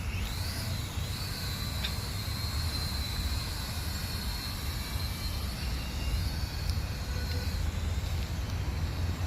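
Small toy drone's propeller motors whining at a high pitch that wavers briefly near the start, then holds steady and fades near the end, over a steady low rumble.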